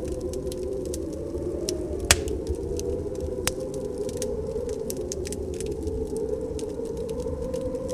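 Wood fire crackling in a fireplace, with scattered sharp pops and one louder crack about two seconds in, over a steady, wavering wind howl of a snowstorm.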